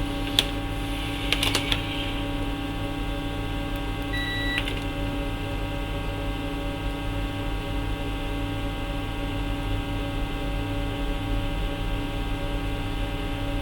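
Steady electrical mains hum from bench equipment, with a few light clicks in the first two seconds and one short electronic beep about four seconds in.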